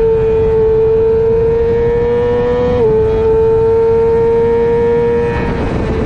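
Middleweight superbike engine running at high revs under load, its pitch climbing slowly, with one quick upshift about three seconds in. Near the end the throttle eases off and the note drops. Rushing wind noise runs underneath.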